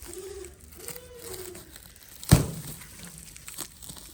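A single sharp knock a little over two seconds in, over faint rustling. Two short calls that rise and fall in pitch come before it.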